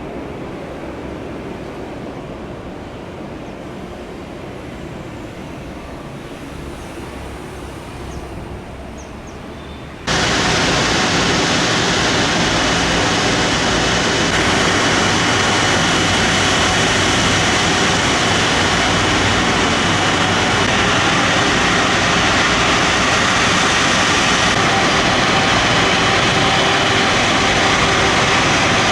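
Boeing 747 jet engines running with a loud, steady rushing roar and a faint high whine, starting abruptly about a third of the way in. Before that there is only a quieter, even rushing noise like wind.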